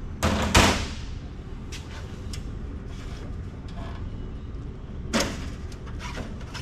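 Circuit boards being handled and slid against a metal rack: two short, loud sliding scrapes, one just after the start and one about five seconds in, with small clicks and knocks between them.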